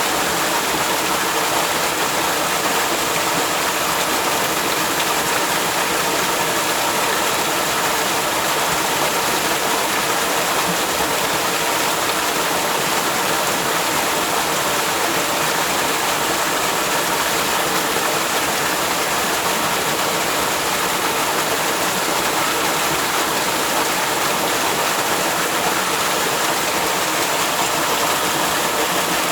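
Waterfall: falling water rushing in a steady, unbroken hiss that does not change.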